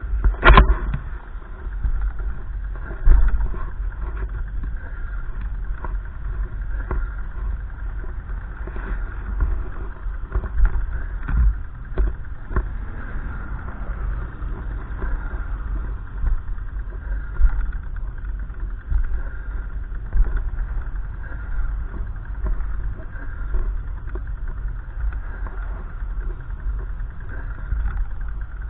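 Wind gusting against the microphone, a loud low rumble that rises and falls unevenly, with a sharp knock about half a second in.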